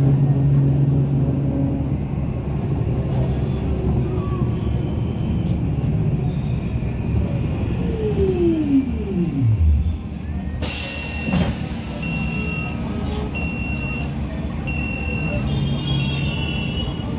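Road traffic rumble from a moving vehicle. A pitch sweeps down steeply just before ten seconds in, and after a sudden change in the sound a short high beep repeats about every second and a bit.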